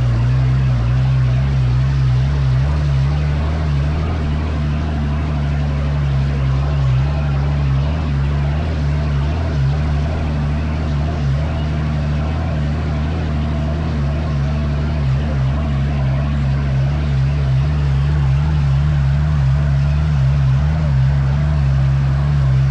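Dune buggy engine running steadily at a deep, nearly constant pitch, with no big revs or drops.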